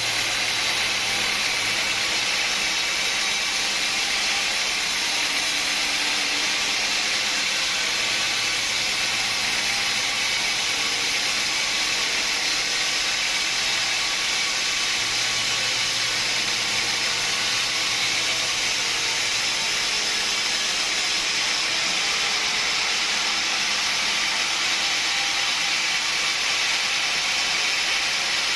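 Sawmill saw cutting through a log: a loud, steady hiss-like noise that holds at an even level with no break.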